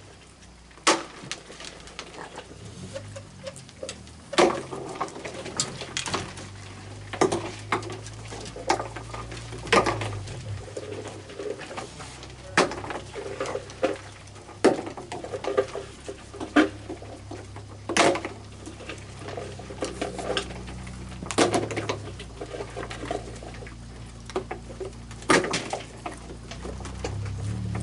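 Irregular clatter and clinks of hard objects, a sharp knock every second or two, over a low steady hum.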